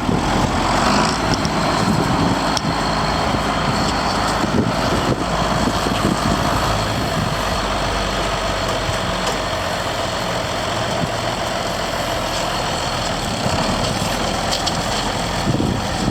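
John Deere 4630 tractor's turbocharged six-cylinder diesel engine running steadily.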